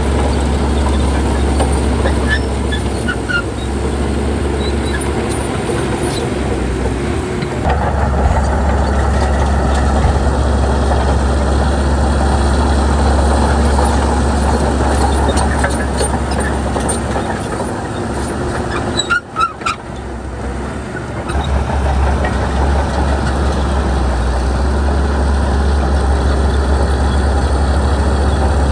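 Shantui bulldozer's diesel engine running steadily with a strong low hum. About two-thirds of the way through it briefly drops in level, with a few sharp clicks, then picks back up.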